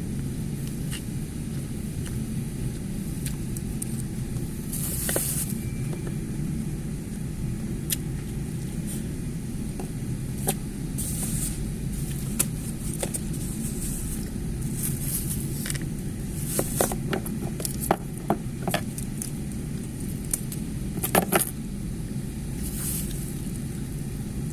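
Steady low rumble with scattered clicks and short crackly bursts of eating: chewing, crunching and utensil clicks, loudest in a quick cluster about 21 seconds in.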